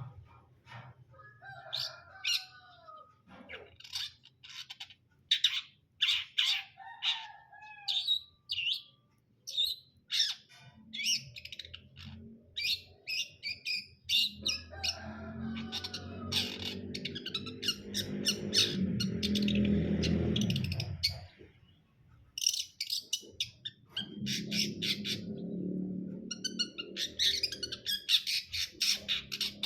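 Long-tailed shrike (cendet) singing: quick runs of short, sharp chirps and harsh notes, broken by a few sliding whistles.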